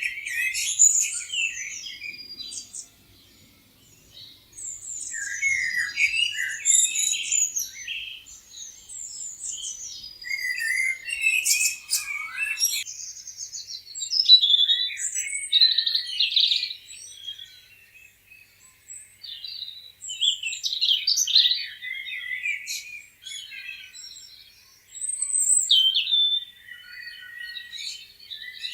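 Several songbirds chirping and singing, with short trills and twittering phrases overlapping in bursts and brief lulls between them.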